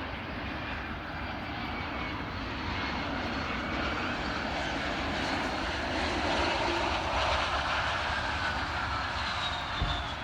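Jet airliner passing on the runway, its engine noise a steady rush that swells toward the middle, with a high whine falling in pitch near the end. A brief low thump just before the end.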